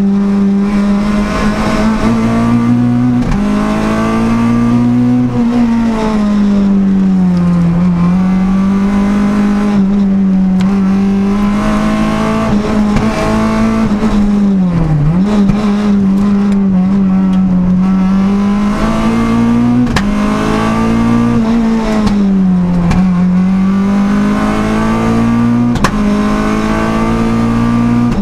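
Renault Clio F2000 hillclimb car's engine at full load, heard from inside the cockpit, revving up and dropping back again and again as it is shifted up through the gears. There is a sharp dip in revs about halfway through.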